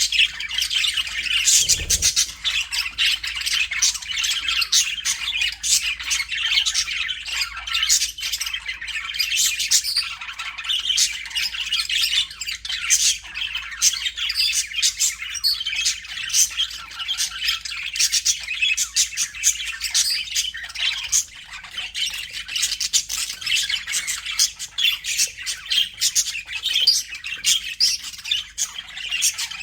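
A group of budgerigars chattering without pause, an overlapping mix of warbling chirps and squawks.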